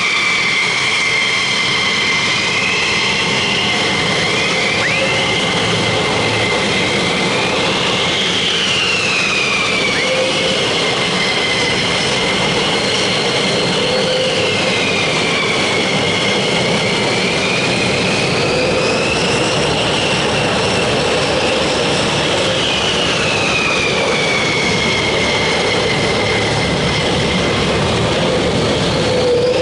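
Jet engine running steadily, its high whine slowly rising and falling in pitch every few seconds.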